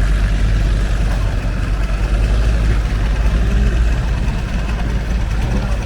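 Longtail boat engine running steadily, a constant low drone.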